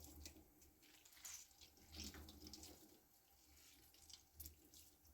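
Near silence, with faint scattered small clicks and taps.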